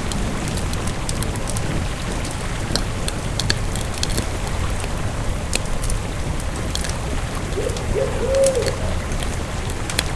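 Campfire burning with a steady low rumble and scattered sharp crackles and pops. About eight seconds in, a bird gives a brief call of a few short notes.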